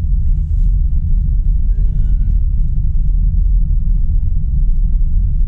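Steady low rumble of road and tyre noise inside a Tesla's cabin while driving, with a short pitched sound about two seconds in.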